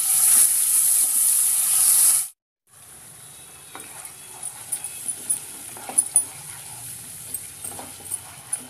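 Wet onion, ginger and garlic paste hitting hot oil in a kadai: a loud burst of sizzling that breaks off suddenly after about two seconds. A quieter steady sizzle follows, with scattered clicks and scrapes as a spatula stirs the frying paste.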